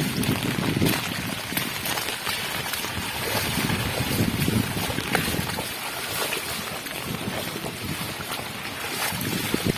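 Wind buffeting the microphone in uneven gusts, over water sloshing from wading through floodwater.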